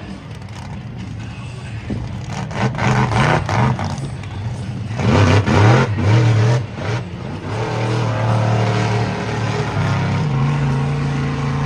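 Monster truck's supercharged V8 running, revving hard about five seconds in, then settling into a steadier, louder drone.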